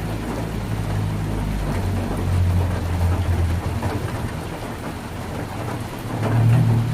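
Heavy rain drumming steadily on a tin roof, under a low rumble that swells about two seconds in and again near the end.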